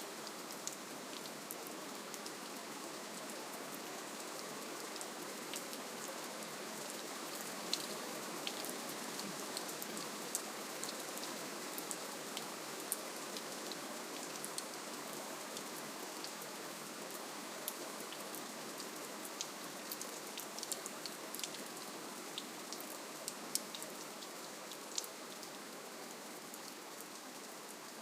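Soft, steady rainfall: an even hiss with many small, sharp drop ticks scattered through it, easing off slightly near the end.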